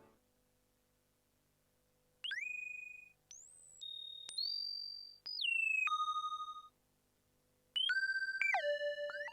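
TSynth, a Teensy 4.1-based polyphonic synthesizer, playing a preset of thin, pure electronic bleeps that slide quickly up and down in pitch between short held notes. After about two seconds of near silence the bleeps start, pause for about a second, then start again near the end, over a faint steady hum.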